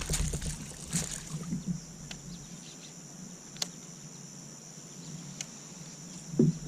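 Light knocks and rustling from handling gear in a fishing kayak, over a steady high-pitched insect drone.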